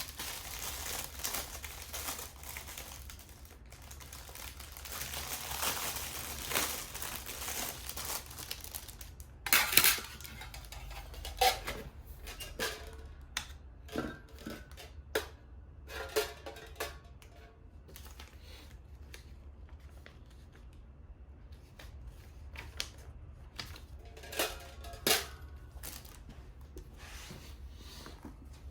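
Packaging rustling and crinkling, then a series of irregular clicks and light metallic clinks as camping gear is handled.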